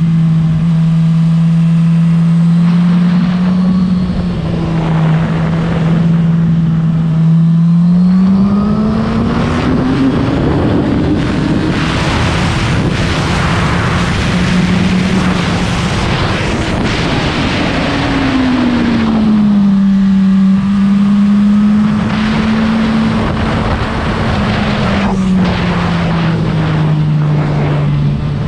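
Suzuki GSX-R1000 K7's inline-four engine heard from on board. It runs at steady revs, then climbs over several seconds and holds high revs under a heavy rush of wind noise. The revs then fall back, with a further drop near the end.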